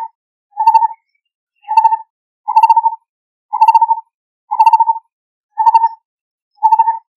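Lineated barbet calling: a single note repeated evenly about once a second, about eight times, each note a brief rapid run of pulses, with no other sound behind it.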